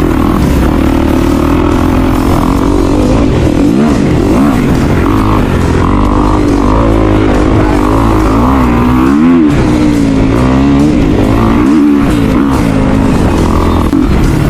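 Dirt bike engine revving up and down as it is ridden, its pitch rising and falling again and again, with background music playing along.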